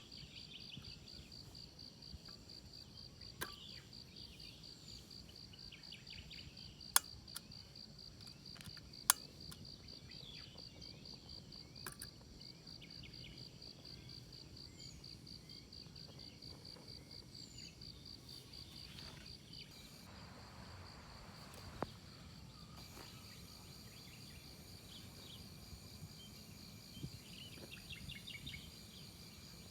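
Insects trilling steadily in a high, evenly pulsing drone over a faint low rumble of background noise. A few sharp clicks stand out, the loudest about seven and nine seconds in.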